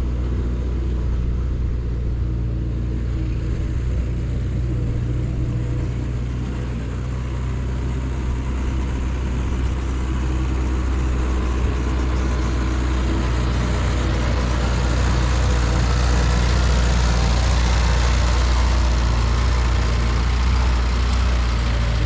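Ford 9N/2N tractor's four-cylinder flathead engine running steadily under load while pulling a Ferguson cultivator through the soil, a little louder about two-thirds of the way through.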